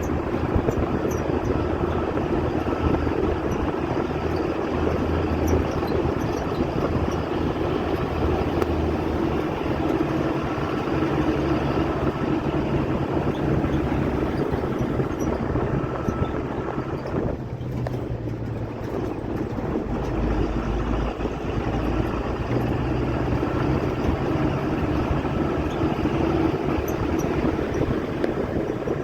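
A vehicle engine running steadily under a constant rushing noise, its low hum shifting in pitch a few times.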